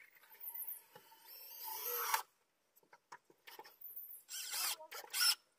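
Power drill running in several short bursts.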